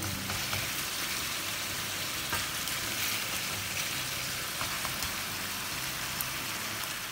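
Chilli chicken sizzling steadily in butter and soy-chilli sauce in a frying pan, with a few faint clicks as it is stirred with a wooden spatula.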